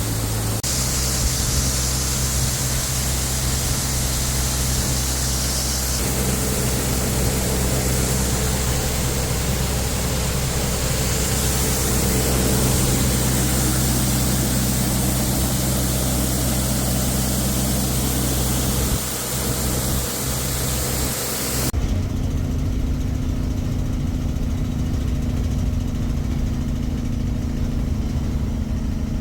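An engine running steadily, its sound shifting abruptly about 6 and 22 seconds in.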